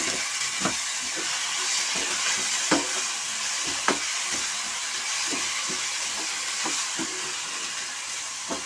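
A chopped onion, garlic and green chilli masala frying in oil with a steady sizzle, stirred with a metal spoon that scrapes and clicks against the pan every so often.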